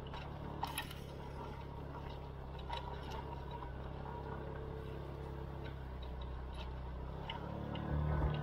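SYM KRN scooter engine running at a low, steady idle, with scattered light clicks and ticks over it. The engine picks up briefly near the end.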